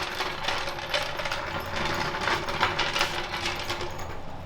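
Scattered metallic clicks and rattles from a floor jack and jack stands being worked and handled under a car.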